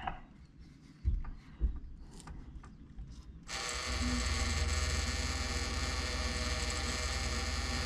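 RV fresh-water pump starting about three and a half seconds in and running with a steady electric buzz and hum, pumping as a faucet is opened. A couple of faint knocks come before it.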